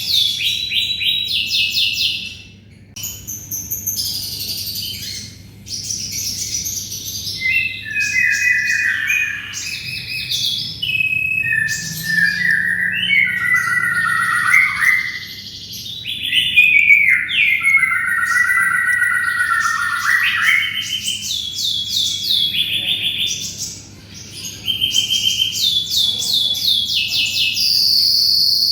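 Domestic canary singing a long, continuous song of rapid trills and repeated-note rolls, with lower warbling phrases in the middle and brief pauses between phrases.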